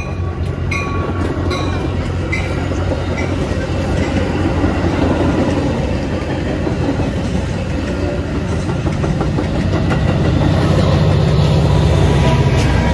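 A train rolling past: diesel locomotive rumble and wheels clacking on the rails, growing louder toward the end. A ringing tone repeats a little faster than once a second at the start and dies away within about three seconds.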